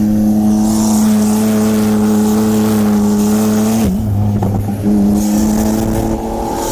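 Car engine and drivetrain droning at a steady cruising speed, the note holding one pitch, with a brief wobble and change in the note about four seconds in before it settles again.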